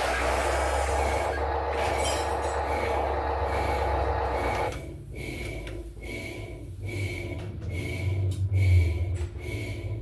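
Heavy machinery running with a steady mechanical rumble that drops off sharply about halfway through. Under it, a faint high beep repeats about every two-thirds of a second.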